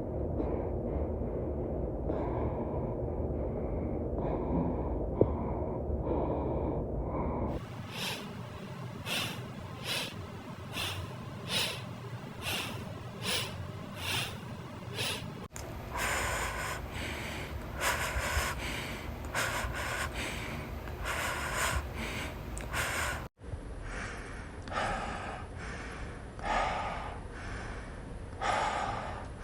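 Repeated breaths or snorts, about one a second, in several spliced-together clips that change abruptly, after a steady low rumble for the first several seconds.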